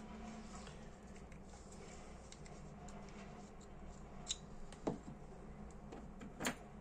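Small metal clicks from a lighter's parts and small tools being handled, three short sharp ones in the second half, the last the loudest, over a faint steady hum.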